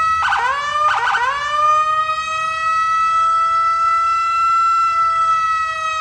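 Electronic police siren: two quick downward dips in pitch that sweep back up within the first second, then one long, nearly steady wail.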